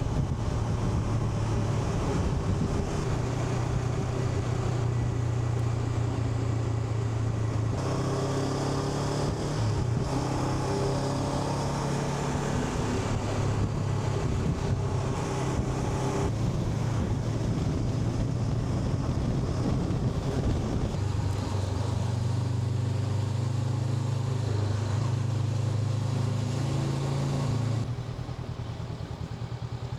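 Honda NX500 parallel-twin engine running steadily under way, its pitch stepping up and down a few times with throttle and gear changes, then easing off and going quieter near the end.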